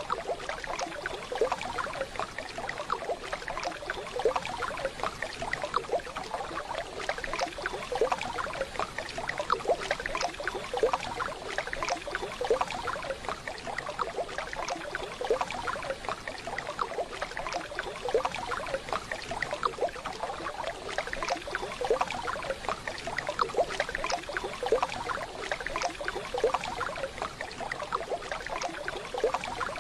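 Waterfall: running, splashing water in a continuous, steady rush.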